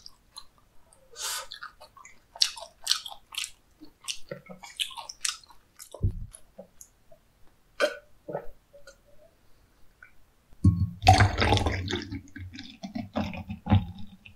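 Close-miked chewing of chewy raw cuttlefish sashimi: irregular wet, sticky clicks and squishes. In the last few seconds comes a louder, dense run of liquid sounds as beer is gulped and then poured from a can into a glass.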